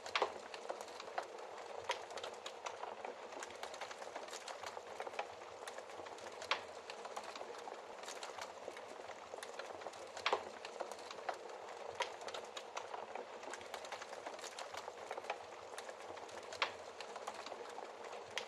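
Wood fire crackling in a fireplace: a steady soft hiss with constant small ticks and a handful of louder sharp pops scattered through.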